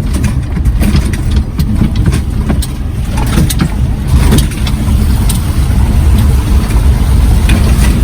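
Suzuki Jimny JA11 on the move: a steady low engine and road rumble with frequent small knocks and rattles.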